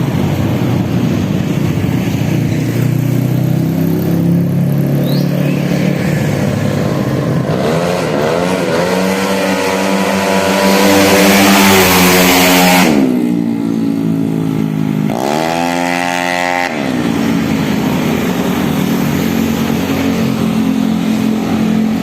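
Road-race tuned 150 cc automatic scooter engine idling, then revved up in a rising pitch and held high for several seconds before dropping off sharply. A second, shorter rev follows, and it settles back to idle.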